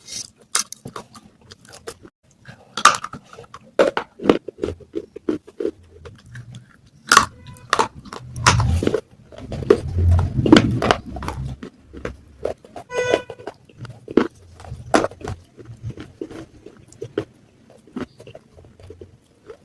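Pieces of baked clay pot (matka) being bitten and chewed close to the microphone: a long run of sharp, separate crunches, busiest about halfway through. Two brief pitched tones cut in, a third of the way in and again about two-thirds in.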